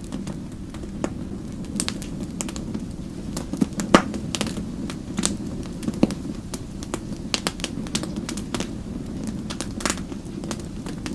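Fire crackling: irregular sharp pops and snaps over a steady low rumble of the flames, with one louder pop about four seconds in.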